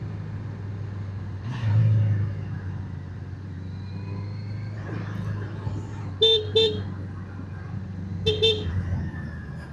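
Motorcycle engine running steadily while riding, with a horn giving two quick double toots, the first about six seconds in and the second about two seconds later.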